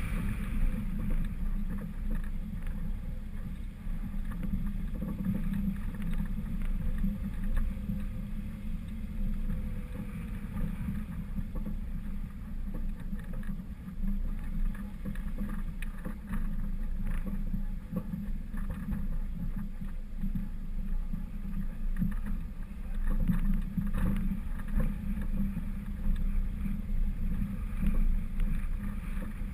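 Muffled low rumble of a 1999 Honda CR-V driving off-road: engine and tyres over rough ground, with scattered knocks and rattles.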